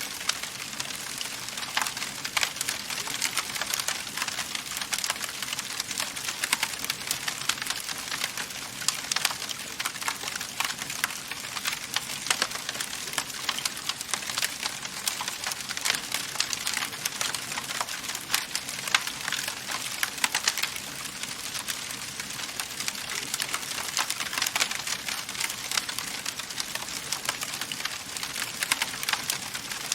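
Wood fire crackling in a fireplace: a dense stream of small irregular pops and snaps over a steady hiss of burning, with a few sharper cracks.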